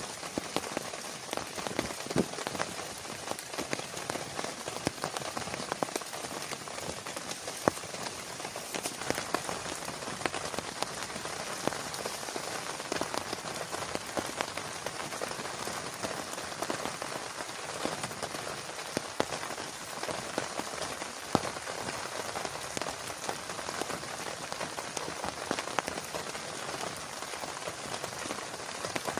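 Heavy rain falling steadily, with many sharp individual drops striking a surface close to the microphone.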